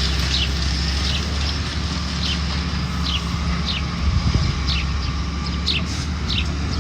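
Steady low engine rumble from demolition machinery, with short falling chirps repeating high above it about once or twice a second and a brief low knock about four seconds in.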